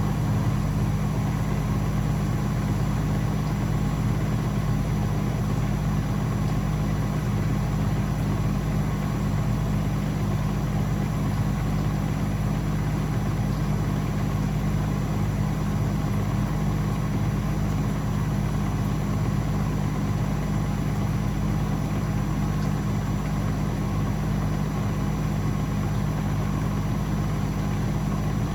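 Blomberg WAF 7442 SL washing machine running with a steady low hum that holds even throughout.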